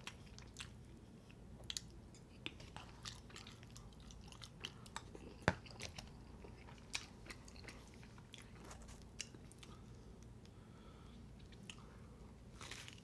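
A person chewing food close to the microphone: scattered wet mouth clicks and smacks, the sharpest about five and a half seconds in and a quick cluster near the end.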